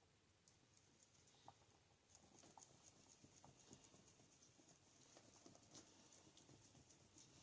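Faint, irregular ticking and scraping of a stir stick against a plastic mixing cup as two-part epoxy resin and hardener are stirred together.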